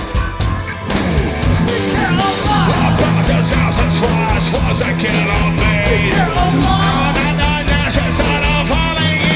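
Live rock band playing loudly, with drums, a steady bass line and singing. The sound gets fuller about a second in.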